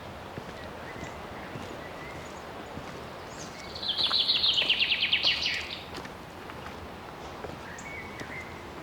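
A songbird sings one loud, rapid trill of about ten high notes a second, lasting under two seconds, a little before the middle. Soft footsteps on the forest trail go on underneath.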